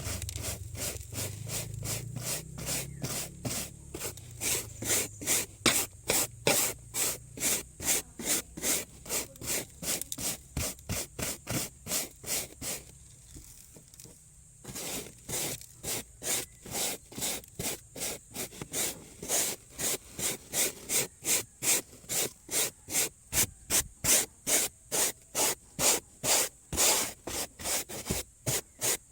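Hand scrubbing with a brush: quick back-and-forth strokes, about two or three a second, with a pause of a second or so about halfway through.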